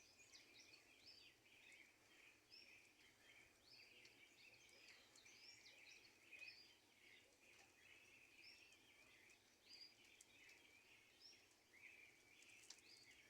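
Faint birdsong: many short chirps and quick whistles from small birds, repeating throughout over a quiet hiss.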